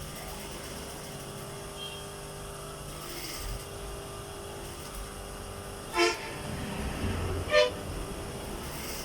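Steady hum of an industrial sewing machine's motor. Two short, loud horn-like toots come about a second and a half apart, late on, with a low rumble of the machine running between them.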